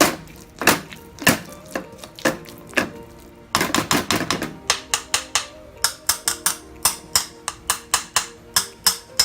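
A kitchen utensil repeatedly knocking against a frying pan as softened, caramelized mango is mashed in it, with sharp strikes two or three a second and a quick flurry of rapid strikes about three and a half seconds in. Soft background music plays underneath.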